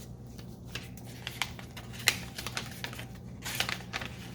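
Paper bills and a paper envelope being handled: scattered light crinkles and taps, with a sharper tap about two seconds in and busier rustling near the end, over a steady low hum.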